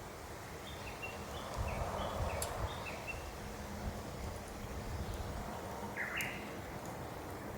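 A small bird chirps in a quick series of short high notes, with a few sharp crackles from a wood fire burning in a fire pit. Low wind rumble runs underneath.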